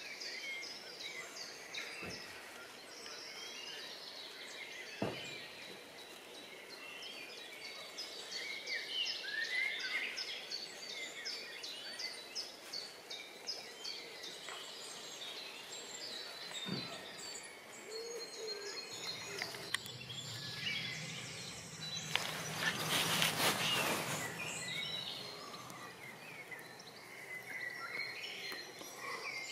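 Several songbirds singing and chirping, with overlapping short calls and trills throughout. A few faint knocks come through, a low hum sets in past the middle, and a brief louder rushing noise comes about three quarters of the way in.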